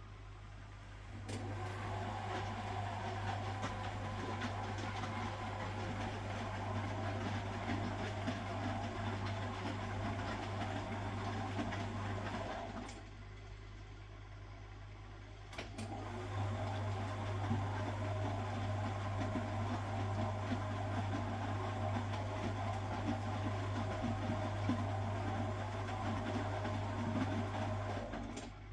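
1969 Zanker VA520 washing machine's Hanning gear motor turning the drum in a wash cycle. It runs steadily for about eleven seconds, stops for about three, then runs again for about twelve, with a click each time it starts and stops.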